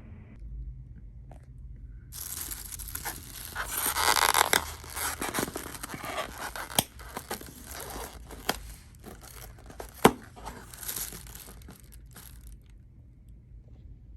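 Packaging being torn open and crinkled by hand, a dense crackling rustle that lasts about ten seconds, with a few sharp clicks and snaps, the loudest about ten seconds in.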